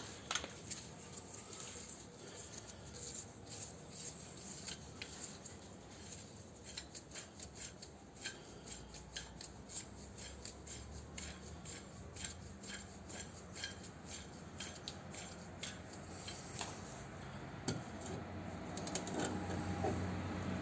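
Scissors snipping repeatedly: a long run of short, sharp cuts, several a second.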